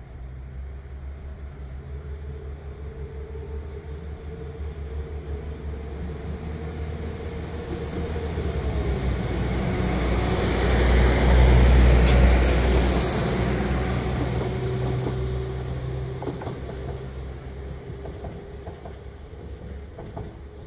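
A train passing close by on the railway: the sound builds to a peak about twelve seconds in and then fades, with a steady tone that drops in pitch as it goes past.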